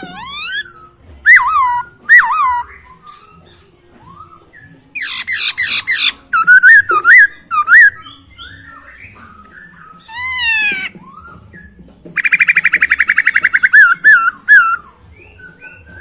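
Poksay Hongkong (masked laughingthrush) singing in loud, clear bursts: swooping whistled notes alternating with two fast rattling trills, with short pauses between phrases.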